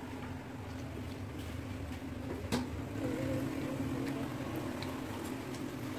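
Chewing and eating noises from a boy biting into fried chicken wings, with one sharp click about two and a half seconds in. A steady low hum runs underneath.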